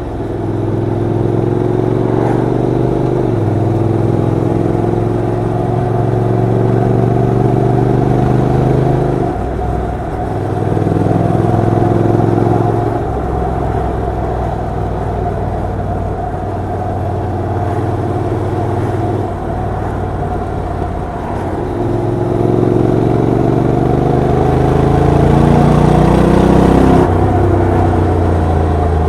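Honda NC750X parallel-twin motorcycle engine on the move. It pulls up in pitch and drops suddenly at gear changes about 3 and 9 seconds in, runs steadier at lower revs through the middle, then climbs again and shifts near the end.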